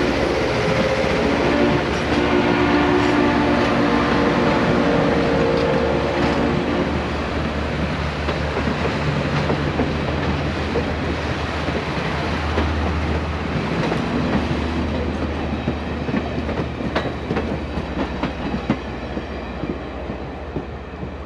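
Passenger cars of a train rolling past on the rails, wheels running and clicking over the rail joints, the sound slowly fading as the last car goes by. For about the first seven seconds a steady chord of several tones sounds over the rolling.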